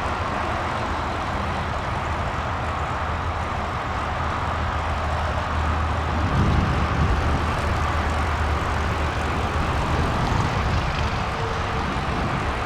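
Steady wind rush over a GoPro's microphone on a moving road bike, with tyre and road noise underneath, swelling a little about six seconds in.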